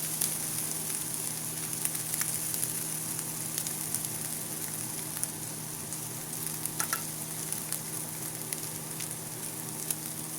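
Onions and ginger-garlic paste frying in hot oil in a pan: a steady sizzle with scattered sharp pops and crackles.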